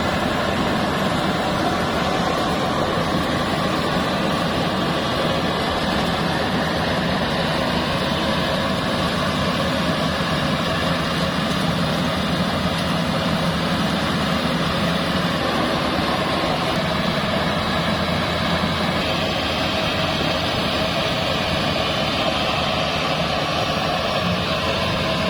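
Bimo Plus mobile rice thresher running steadily, its engine and threshing drum making a constant drone with no change in speed.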